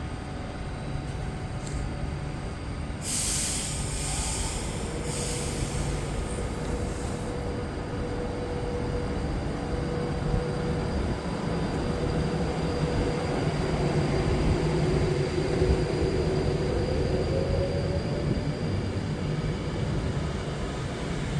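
Electric passenger train pulling away from the platform after the guard's green flag, with the rumble of its wheels on the rails. A hiss of air a few seconds in, then a steady whine from the traction motors that climbs in pitch near the end as the train gathers speed.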